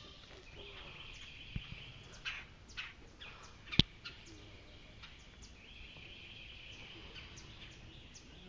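Wild birds calling in swamp woodland: a few short falling chirps and two stretches of a high, steady trill. One sharp knock stands out a little under four seconds in.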